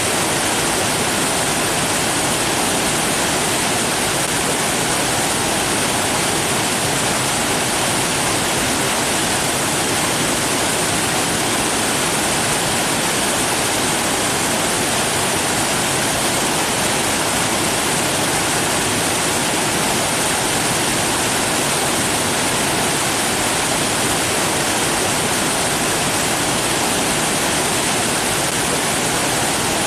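Steady, unbroken rush of flowing water, an even hiss with no changes.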